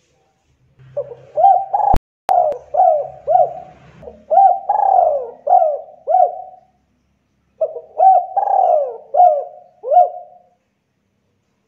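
Spotted dove (tekukur) singing: two runs of its rhythmic cooing song, each made of repeated hooked coo notes that rise and fall, with a short pause between the runs. There is a sharp click about two seconds in.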